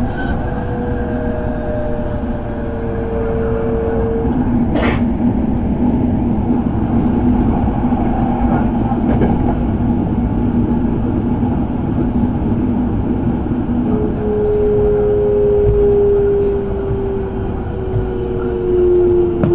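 Electric commuter train heard from on board, running with a steady rumble and traction-motor whine; the whine slowly falls in pitch over the last few seconds as the train slows for a station. A single sharp clack about five seconds in.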